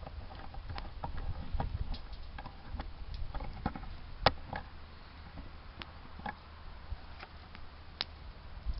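Wood campfire crackling: irregular small pops and snaps over a low rumble, with a sharper snap about four seconds in and another near the end.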